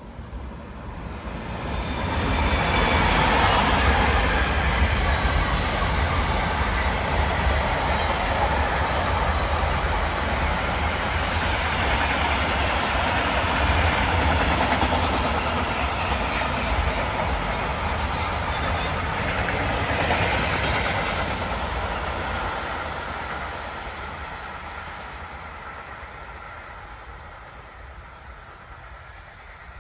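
Freight train of tank wagons and open wagons passing at speed, its wheels clattering over the rails. The rumble builds quickly, is loudest a few seconds in as the locomotive goes by, holds steady while the wagons pass, then fades away over the last several seconds.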